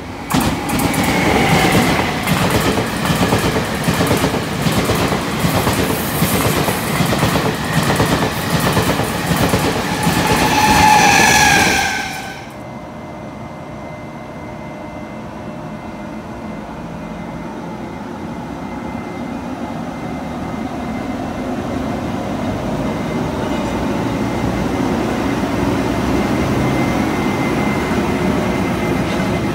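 A Taiwan Railway push-pull Tze-Chiang express (E1000 set) passes at speed, its wheels clattering over rail joints in a fast rhythm, with a high whine that slides down in pitch just before the sound cuts off suddenly about twelve seconds in. Then an E200-class electric locomotive hauling blue passenger coaches rolls slowly past with a steady rumble that grows gradually louder.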